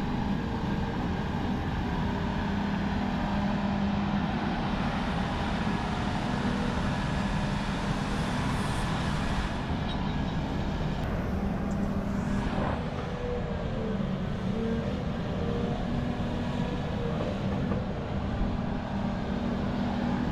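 Volvo 550 large excavator's diesel engine running under load as it digs and loads a haul truck, a steady heavy drone whose note shifts about two-thirds of the way through.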